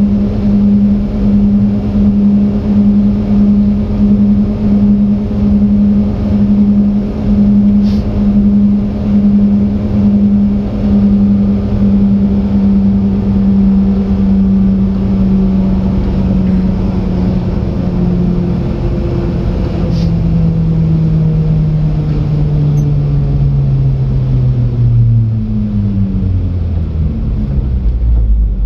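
Japanese mini truck driving, its engine and drivetrain holding a steady pitch for most of the stretch, then the pitch falling steadily over the last ten seconds as the truck slows down.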